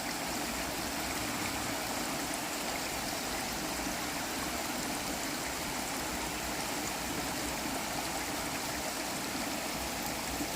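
Glacier-fed stream and waterfall water rushing steadily.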